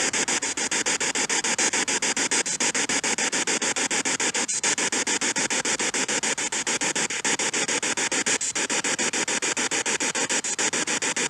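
Spirit box sweeping through radio stations: loud, steady radio static chopped into rapid, evenly spaced pulses many times a second.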